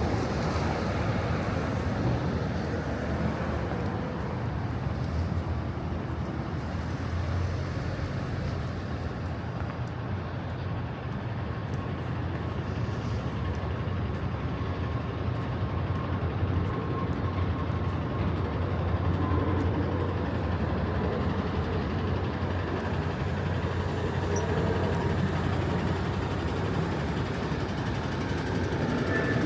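Steady low rumble of road vehicle engines in city traffic.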